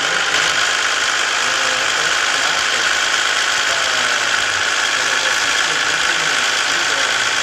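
Steady engine and road noise of a Scania S 450 truck running under way, with no breaks or sudden sounds.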